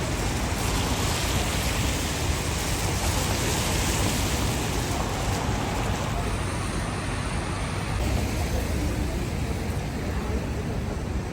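Steady hiss of rain and wet-road traffic on a city street, over a low rumble; the high hiss eases about six seconds in.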